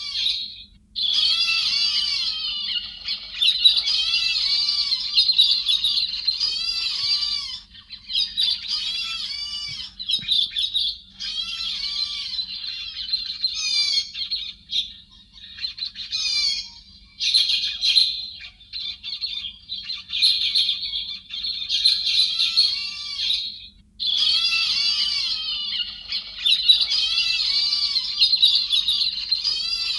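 A chattering flock of héc xoan thrushes, many quick calls overlapping in long bursts with short breaks, over a faint steady low hum. It is a bird-trapping lure recording.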